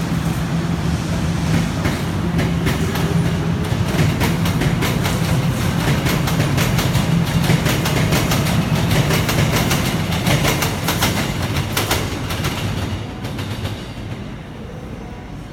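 Guangzhou Metro Line 1 train running on the track: a steady low rumble with rapid wheel clicks and rattles over the rails. It gets quieter over the last couple of seconds.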